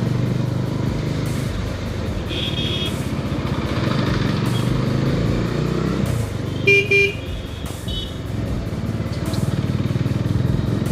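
Bajaj Dominar 250 single-cylinder motorcycle engine running at a steady riding speed, heard from the rider's position. A vehicle horn honks briefly about two seconds in, then twice loudly a little past the middle, with a weaker honk just after.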